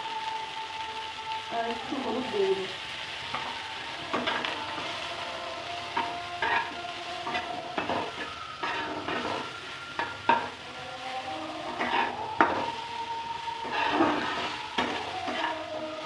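Cauliflower florets sizzling in hot oil in a nonstick kadai, stirred and turned with a flat metal spatula that scrapes and taps against the pan at irregular intervals.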